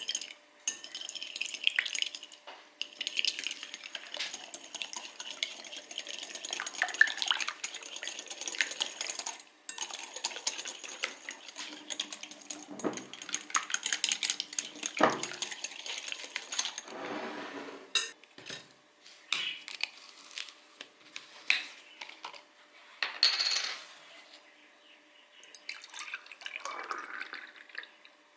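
Dishes and cutlery clinking and clattering. A dense run of clinks for the first nine seconds or so gives way to scattered clinks and knocks with short pauses.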